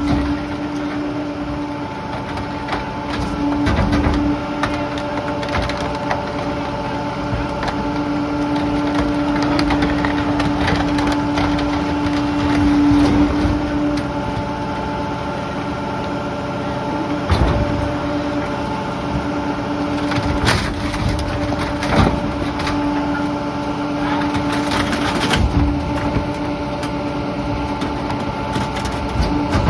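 Rear-loading garbage truck compacting bulky household debris, wood and other junk cracking and splintering as it is crushed, with sharp cracks scattered throughout, over the steady pitched hum of the running truck.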